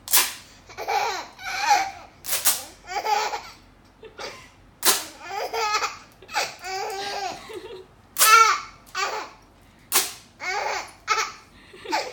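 Scotch tape pulled off the roll in short, sharp rips, about six times, each followed by a baby's bursts of laughter.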